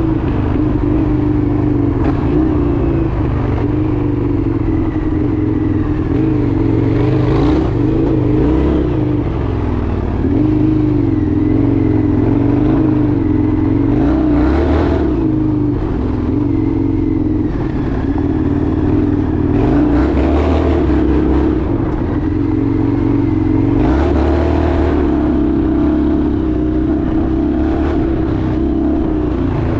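Indian FTR 1200's V-twin engine running while the motorcycle is ridden, its pitch wavering up and down with the throttle.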